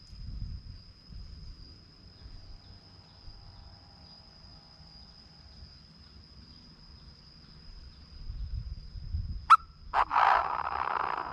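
A Chinese francolin gives a short sharp note about nine and a half seconds in, then a loud, harsh call that lasts just over a second, up to the end. A steady high-pitched insect buzz and low wind rumble run underneath.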